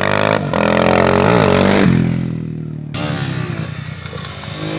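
Motorcycle engine revving, its pitch rising and falling; it drops off about two seconds in and picks up again about a second later.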